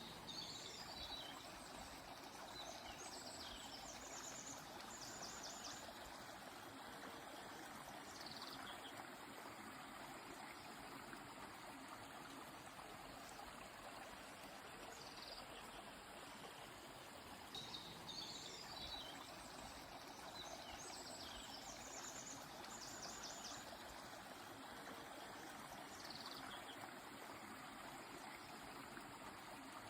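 Quiet, steady flow of a river or stream, with songbirds calling over it: short runs of high chirps and quick trills every few seconds.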